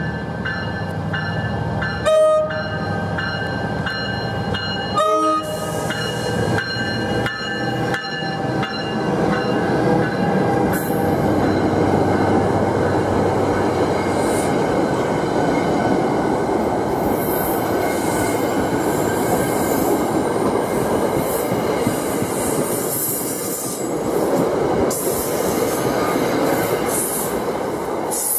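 NJ Transit commuter train coming into a station and passing close by. A bell rings steadily and the horn gives two brief toots early on. Then there is the loud, steady rumble of the train and its passenger cars rolling past, with high wheel squeal in the second half.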